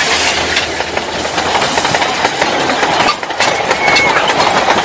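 Full-size Thomas the Tank Engine replica locomotive running past close by on the track: a loud, steady clatter and rush of wheels on rails.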